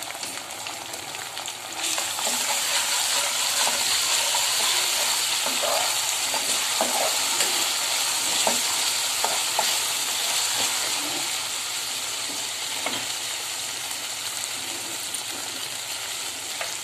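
Chopped onion, cumin seeds and fresh ginger-garlic paste sizzling in hot oil in an aluminium kadhai, the sizzle jumping louder about two seconds in and then holding steady. A spoon scrapes and stirs against the pan now and then.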